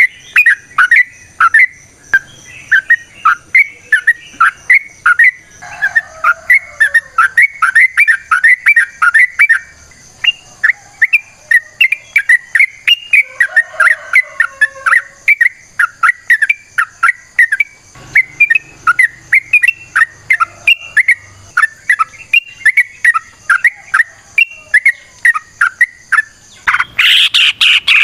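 Yellow-vented bulbul (trucukan) singing a long run of short, sharp whistled notes, about three a second. About a second before the end, louder and denser calling begins.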